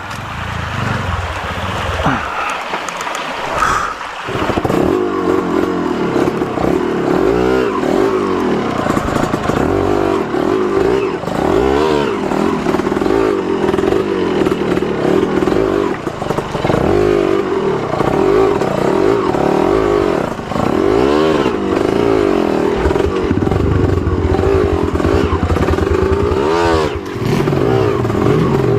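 Trail motorcycle engine pulling under load, getting louder about four seconds in. Its revs dip and climb back several times as the throttle is worked.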